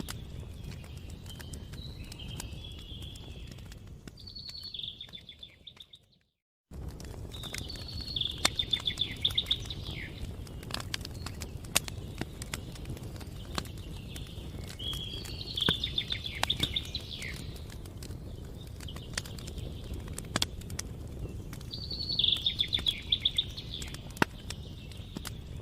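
Campfire crackling, with frequent sharp pops over a low rumble, while a songbird sings short, rapid phrases every six or seven seconds. The sound drops out completely for about half a second around six seconds in.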